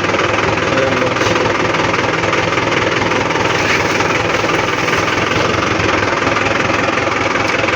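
Tractor engine running steadily and loudly, close up.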